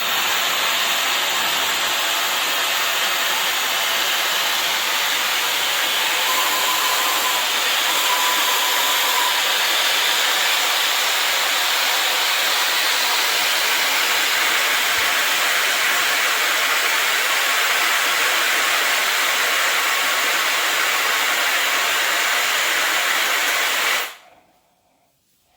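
CrazyMar air styler's hair dryer running, a loud, steady rush of air that is switched off suddenly shortly before the end.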